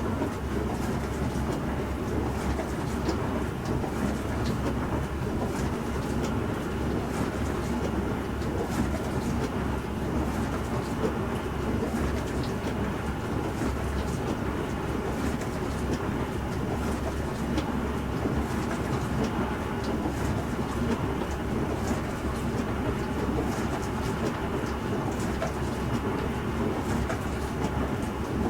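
Bosch Serie 4 SMS46MW05G dishwasher running mid-cycle: a steady low hum and wash noise, with many faint irregular ticks.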